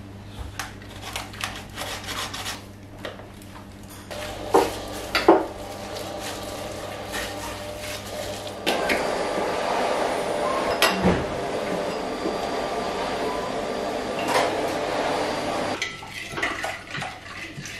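Dishes and cutlery clattering and clinking against each other in a kitchen, with a steady rush of water, like a tap running, from about halfway through to near the end, then more clinks.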